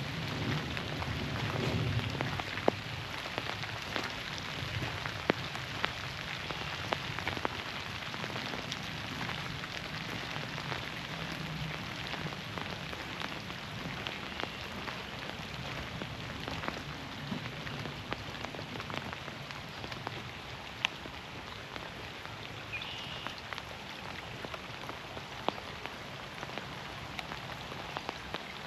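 Steady rain falling through the forest, with single heavy drops landing close by as sharp clicks. A low rumble sounds in the first two seconds.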